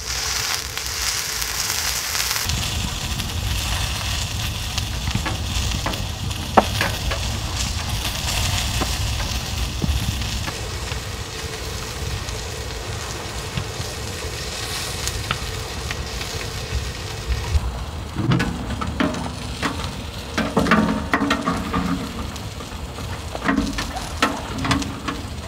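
Food sizzling steadily in a frying pan, with one sharp click about six seconds in and a run of short knocks and scrapes over the last several seconds.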